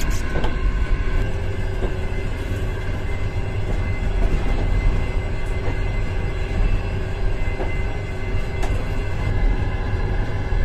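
Steady rumble of a moving passenger sleeper car heard from inside its washroom, with a constant hum over it and a few light clicks and rattles.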